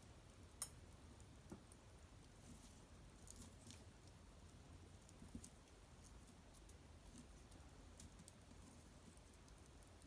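Small wood fire crackling faintly, with scattered small pops and ticks and one sharper pop about half a second in, over a low steady hum.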